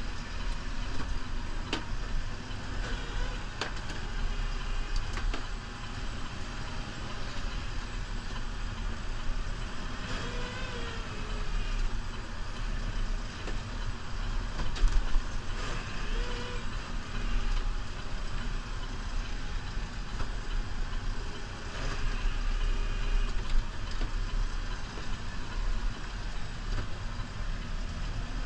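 New Holland Powerstar 75 tractor's diesel engine running steadily under work, with scattered clicks and knocks.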